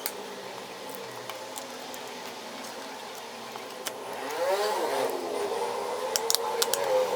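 Sharp, light clicks of small tools and parts on a Samsung Galaxy A13 smartphone being worked on, several near the end, over a wavering tone that swells in the middle.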